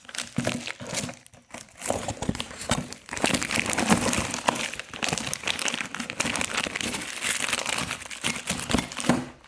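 Packaging being crumpled and pulled about by hand, a dense crinkling crackle with many small clicks, as the parts are unwrapped from the box.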